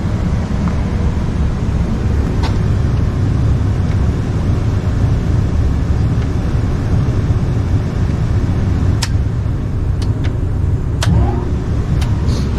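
Steady low rumble of a Lennox rooftop package unit's indoor blower running in heat mode, with a few sharp clicks scattered through it.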